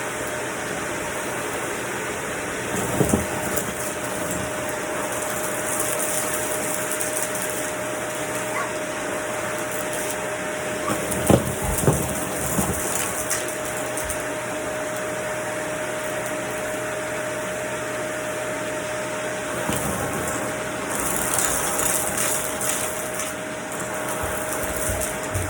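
Vacuum cleaner running steadily, a constant rushing noise with a steady hum, its hiss brightening briefly twice. A few short knocks come a few seconds in, twice around the middle and once later.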